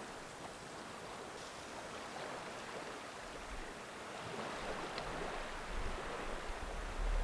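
Sea water washing on the shore in a steady wash. About halfway through, wind begins buffeting the microphone with a low rumble.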